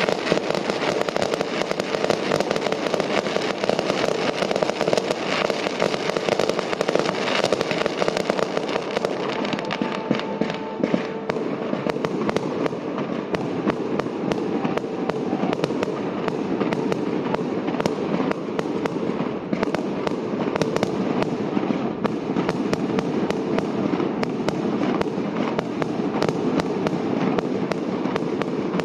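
Loud fireworks finale heard from close by: a dense, continuous barrage of shells bursting and crackling, overlapping with no let-up.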